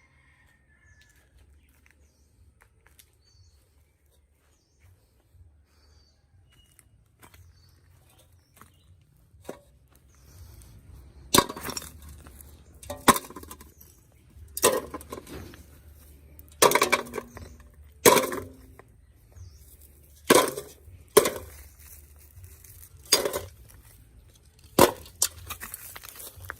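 Faint soft clicks at first, then from about eleven seconds in a series of about ten sharp knocks and clinks of hard objects, one every one to two seconds, each with a short ring.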